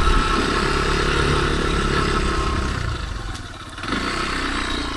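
Kymco KTR 150 motorcycle's single-cylinder engine running at low speed, easing off a little past three seconds in and picking up again about a second later.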